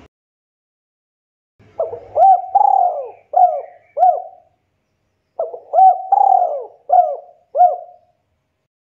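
Spotted dove cooing in two phrases of about half a dozen rolling notes each, with a short pause between the phrases.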